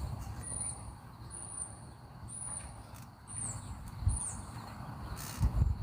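A small bird repeating short, high, down-slurred chirps about once a second, over a low rumble, with a brief noisy rustle near the end.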